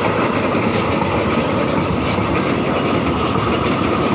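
Passenger train running along the track, a steady rumble of wheels and cars.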